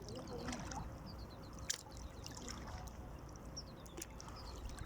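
Water trickling and dripping around a small boat, with a couple of sharp clicks.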